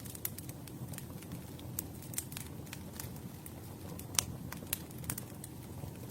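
Campfire burning with a steady low rumble and irregular sharp crackles and pops from the burning wood, the loudest pop about four seconds in.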